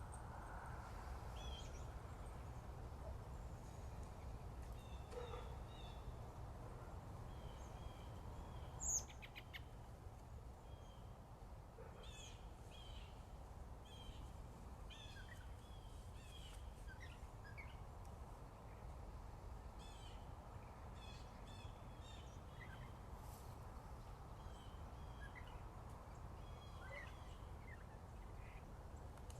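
Several small birds chirping and singing in short, scattered phrases over a steady low rumble. About nine seconds in, one brief, louder, high-pitched falling sound stands out.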